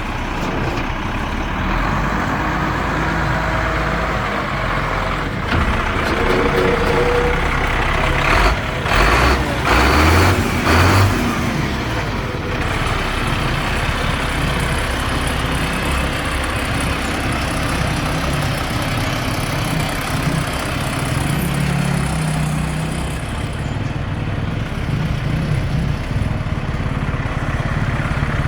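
1997 Ford F700 dump truck's 8.3-litre inline-six engine running steadily at idle, with a few short louder bursts about nine to eleven seconds in.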